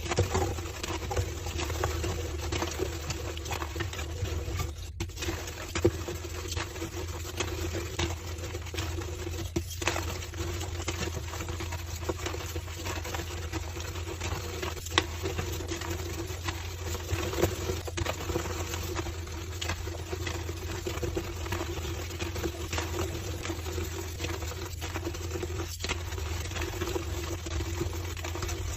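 Slabs of homemade gym chalk crushed by hand, a steady dense crunching and squeaking with a few sharper cracks, over a constant low hum.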